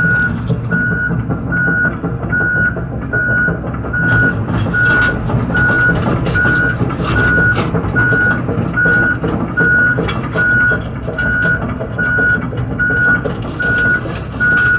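John Deere 245P excavator moving under its own power, its travel alarm beeping steadily about once every 0.8 seconds over the running diesel engine. From about four seconds in, metal clanks and rattles come through.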